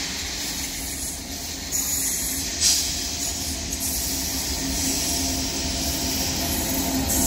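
Indian Railways WAG-9H electric freight locomotive approaching with its train: a steady rumble with a faint hum that grows slowly louder as it nears, with one brief louder burst a little under three seconds in.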